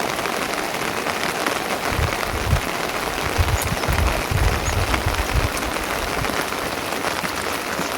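Steady rain falling, with many separate drop ticks through it. A low rumble comes and goes from about two to five and a half seconds in.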